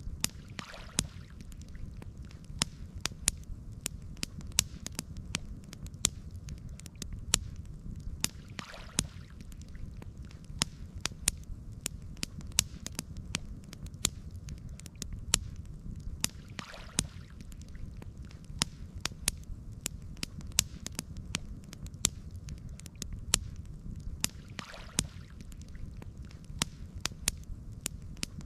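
Campfire crackling, with many sharp irregular pops over a steady low rumble. A soft whooshing swell recurs about every eight seconds.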